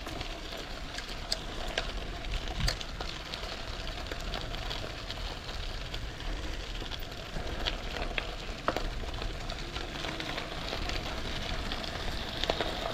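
Bicycles rolling along a trail: a steady hiss of tyres on the ground with scattered small clicks, over a low rumble of wind on the microphone.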